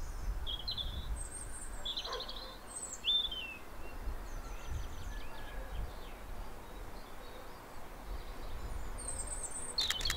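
Wild birds singing: several short chirps and trills scattered through, over a low steady background noise.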